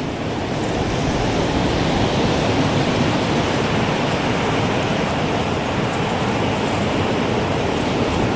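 Strong wind blowing steadily, a dense rushing noise that swells a little over the first second or two; no chime notes stand out.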